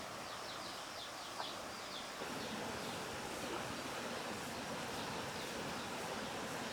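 Outdoor ambience: a steady hiss of background noise, with a bird chirping repeatedly during the first two seconds and one small click.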